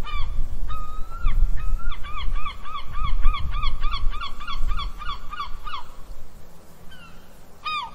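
A bird calling in a rapid series of short rise-and-fall notes, about four a second for several seconds, with a few longer calls before and one after, over a low rumbling background.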